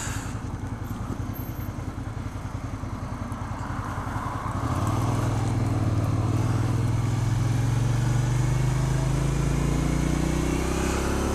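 Suzuki SV650's V-twin engine with a full Yoshimura exhaust, running slowly in first gear with an even low pulse, then pulling away about four and a half seconds in, getting louder and its pitch rising steadily as it accelerates toward 6,000 rpm.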